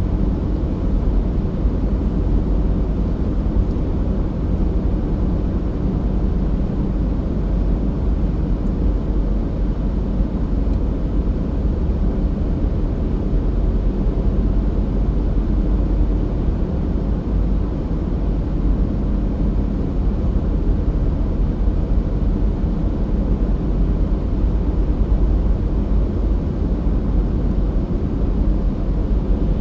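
A car driving at a steady speed: constant, low road and engine noise with no changes.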